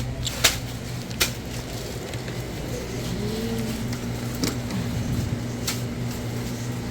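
Supermarket aisle background: a steady low hum with a few sharp clicks and knocks, and a faint distant voice about halfway through.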